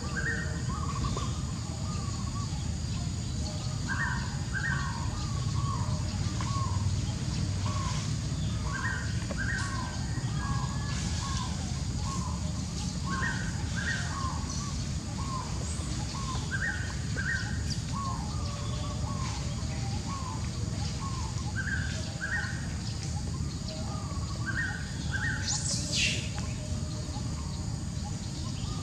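Birds calling in forest: a two-note call repeats about every four seconds over frequent short chirps, with one brief high rising squeak near the end and a steady low rumble underneath.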